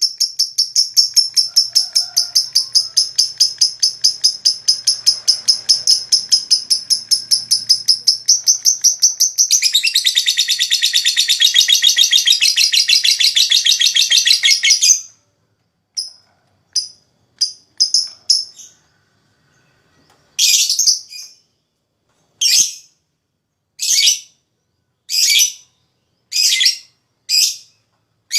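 Lovebird 'ngekek': a long, fast, rattling chatter of high, shrill notes, many a second, that gets fuller and louder about halfway through and stops abruptly. It is followed by a few short notes and then single sharp calls about one every second and a half.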